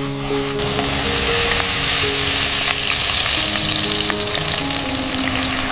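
Food sizzling in a hot frying pan: a steady hiss that swells in just after the start and holds, with soft sustained music notes underneath.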